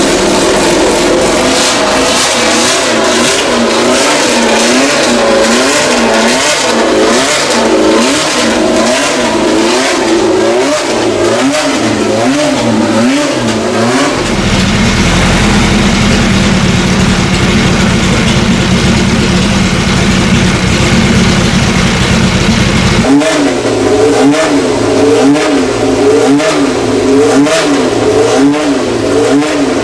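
Historic racing car engines revving, the pitch swinging up and down over and over about once a second, with a steadier, lower engine drone in the middle stretch before the repeated revving returns.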